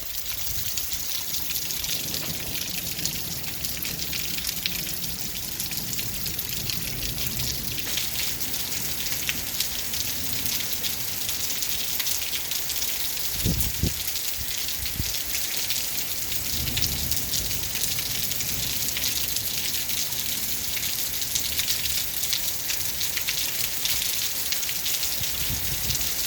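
Hail and rain pelting down: a steady, dense patter of countless small impacts, with a couple of low thumps about halfway through.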